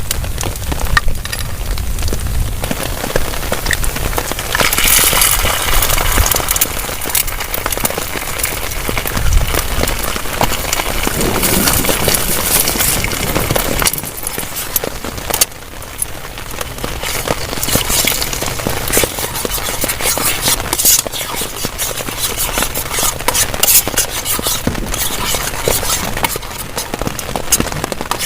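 Heavy rain drumming on a tarp shelter: a dense, steady patter of drop impacts, with heavier spells.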